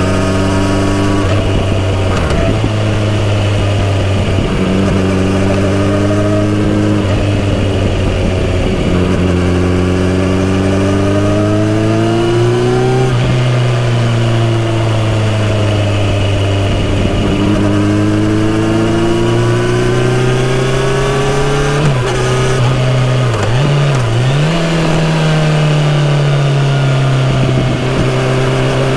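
Kawasaki Z900RS inline-four engine through a full-system exhaust, heard while riding. The pitch climbs three times under acceleration, with a sharp drop at each upshift. Past the middle the engine speed dips and wavers briefly, then holds steady at a cruise.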